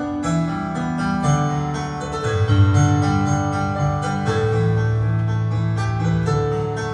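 An orchestra playing an instrumental piece: held notes in chords over a slowly moving bass line, with plucked strings sounding throughout.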